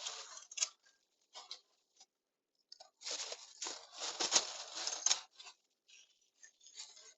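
Dry rustling and crackling handling noise as pinecones are taken up and set among the charcoal to get it lit: a short burst at the start, then a longer, denser stretch of rustling from about three to five seconds in, with a few small clicks between.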